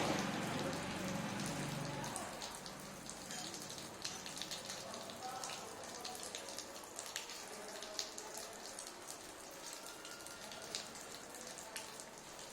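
A budgie splashing in bath water: an irregular patter of small splashes and droplets.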